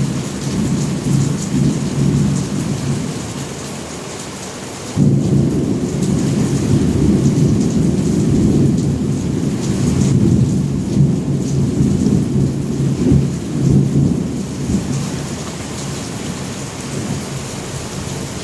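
Thunder rumbling deeply over steady rain. A louder roll breaks in suddenly about five seconds in and fades away near the end.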